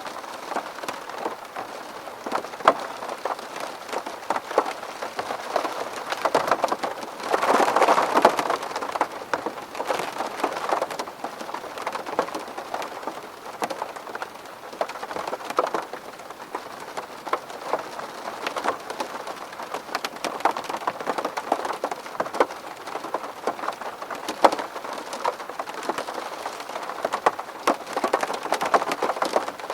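Rain pattering on window glass: a steady hiss dotted with many sharp ticks of single drops striking, briefly heavier about seven to nine seconds in.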